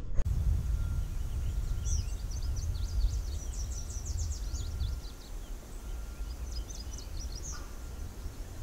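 Small birds chirping in quick high trills, in two spells, over a steady low rumble.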